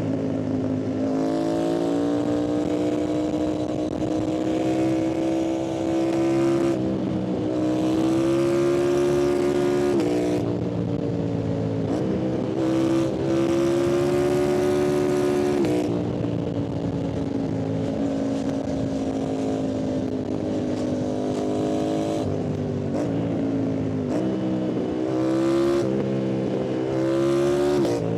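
Yamaha MT-07's parallel-twin engine and exhaust under hard riding, climbing in revs and shifting gear several times, each shift a brief break and jump in pitch.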